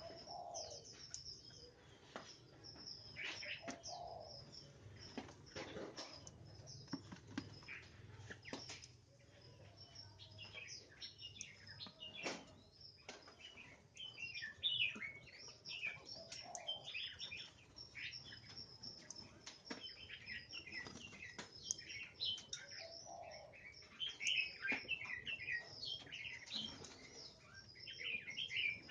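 White-rumped shamas chirping and calling, many quick high chirps overlapping throughout, with a few short knocks in between.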